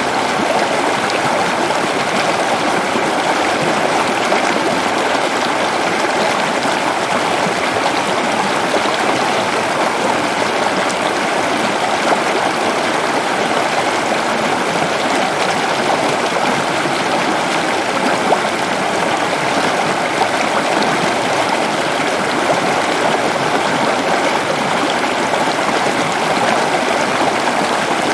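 Waterfall pouring steadily: a continuous, even rush of falling water with no breaks or changes.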